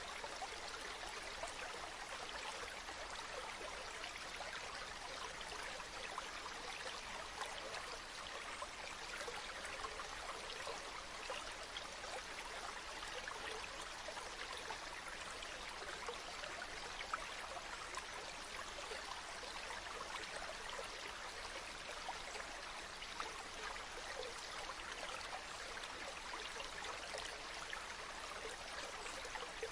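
Water flowing steadily in a small stream, an even trickling rush with no breaks or single splashes.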